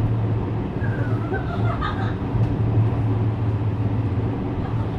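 Onboard running sound of a JR West 321 series electric train: a steady low rumble and hum of the car under way on the track.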